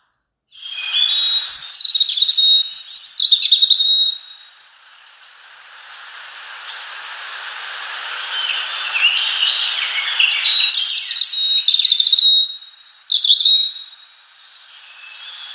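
Small songbirds chirping and calling in quick bursts, in two spells. Between them, a rising hiss swells and stops abruptly.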